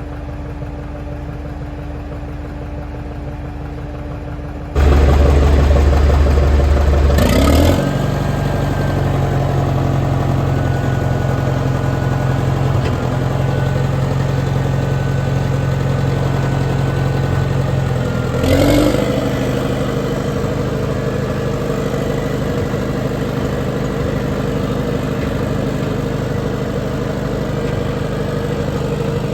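Heavy-equipment engine running steadily. About five seconds in it abruptly gets louder with a deeper hum, and it briefly rises in pitch twice, near 8 and 19 seconds in.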